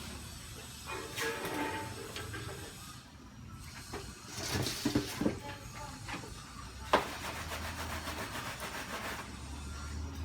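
Motorcycle being washed: several short bursts of hissing spray and rubbing, with a single sharp click about seven seconds in.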